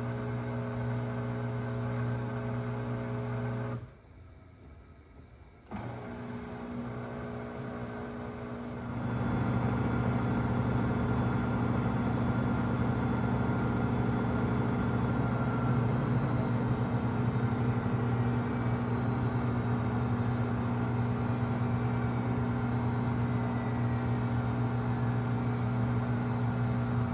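Samsung WW25B6900AW front-load washer making a steady low buzz. The buzz stops about four seconds in, returns quieter about two seconds later, then turns louder and harsher about nine seconds in. The owner says this buzz is quieter while water is draining and louder when there is no water left to drain.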